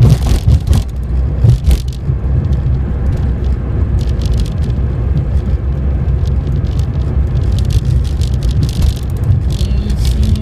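Steady low rumble of a car's road and engine noise heard from inside the cabin while driving, with a few knocks in the first two seconds.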